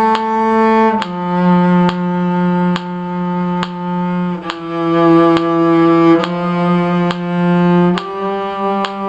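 A bowed string instrument playing a slow melody in low, sustained notes, with several bow strokes on each pitch and a change of note every second or few.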